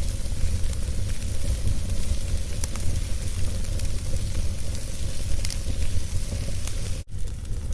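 Wood fire burning in a fireplace: a steady hiss and low rumble with scattered sharp crackles and pops. The sound drops out for a split second about seven seconds in.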